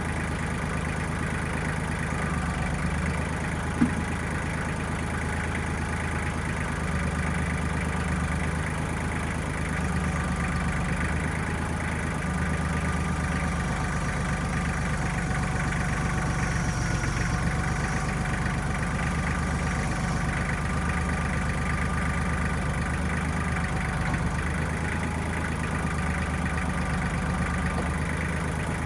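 1995 Kubota backhoe's diesel engine running at a steady speed, with one sharp click about four seconds in.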